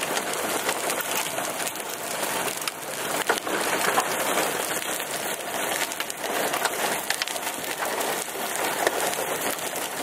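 Hail mixed with rain pelting a car, a dense, constant clatter of penny- to quarter-sized hailstones with sharper individual hits standing out.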